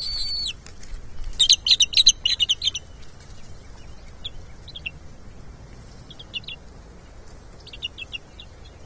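Bald eagle calls: a high thin whistle at the start, then a loud burst of rapid high-pitched chittering, followed by fainter short chirps in small groups.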